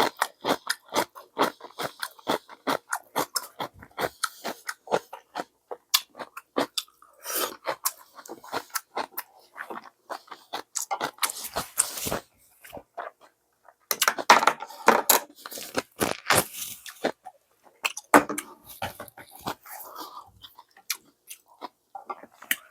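Close-up chewing and crunching of someone eating ramen with kimchi: a long run of irregular crisp crunches and mouth clicks, with a short pause about halfway through.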